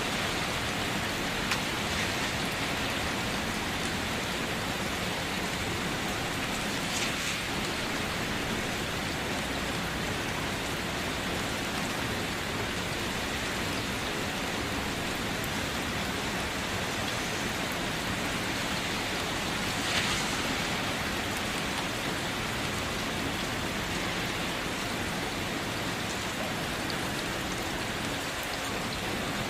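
Steady rainfall, an even hiss of rain on a surface with the odd louder drop or splash, around 7 seconds in and again about 20 seconds in.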